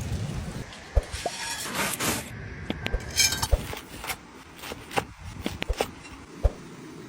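Cooking utensils clinking and knocking: a scattering of short, sharp hits at irregular intervals.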